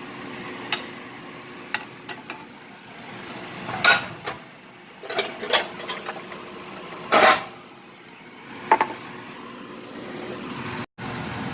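Metal utensil clinking and scraping against a pan and dishes, about a dozen scattered short knocks over a faint steady hiss, as sautéed potatoes are taken out and set aside.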